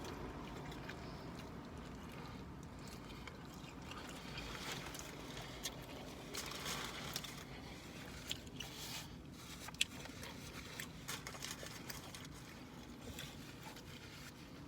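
A man eating a burger: faint chewing and mouth sounds with scattered small clicks and rustles, over a low steady background hum.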